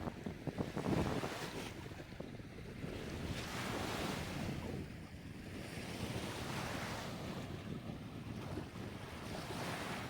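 Small waves breaking and washing up on a sandy beach, swelling and fading every few seconds, with wind buffeting the microphone, strongest in the first second or so.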